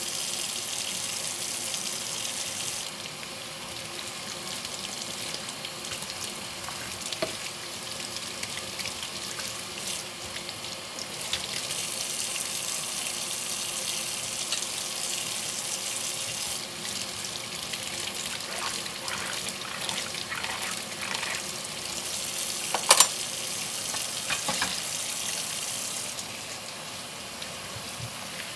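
Tap water running into a kitchen sink during hand dishwashing. The flow eases off a few seconds in and picks up again, and a couple of sharp clinks of dishes come near the end.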